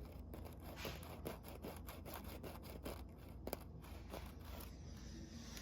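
Faint, irregular scraping and small clicks, several a second with a sharper one about halfway through: a strip of sandpaper being worked in and out between the dirty power-switch contacts of a KitchenAid Pro stand mixer to clean them.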